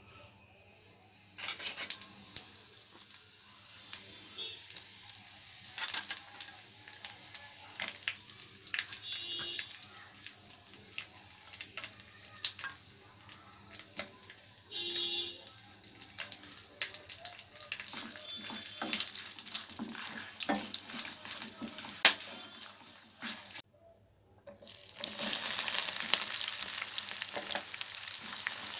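Whole spices sizzling in hot fat in a non-stick kadai: a steady hiss with frequent sharp pops and crackles. After a brief break near the end, a louder, denser sizzle as chopped onions fry.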